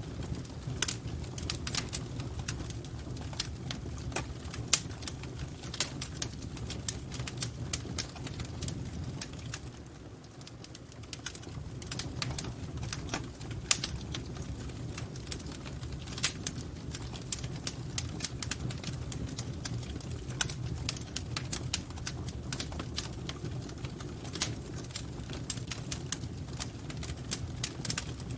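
Wood fire crackling in a fireplace: many irregular sharp snaps and pops over a steady low rumble of the flames.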